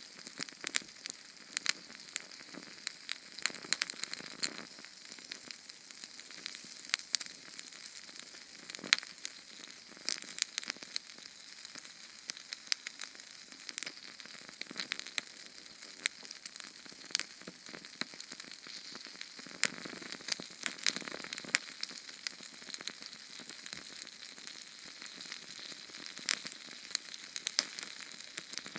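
Small Sterno canned-fuel flame crackling: a steady hiss with frequent, irregular sharp pops and snaps.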